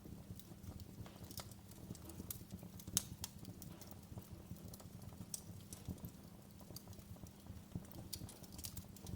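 Wood fire crackling in a fireplace: irregular sharp pops and snaps over a steady low rumble of the burning, with one louder pop about three seconds in.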